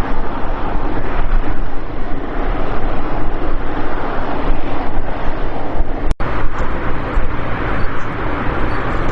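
Jet engine noise from a Boeing 777 freighter, a loud, steady rush with a deep rumble. It breaks off for a split second at about six seconds in, then carries on.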